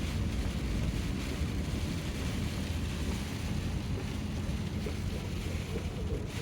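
Steady heavy rain from a severe thunderstorm, with wind rumbling on the microphone.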